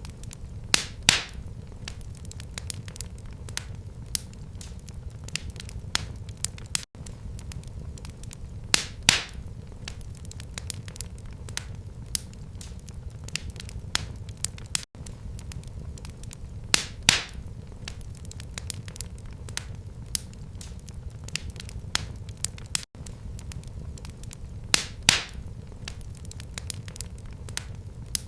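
Wood fire burning in a fireplace: a steady low rumble under constant small crackles, with a louder sharp pop about every eight seconds.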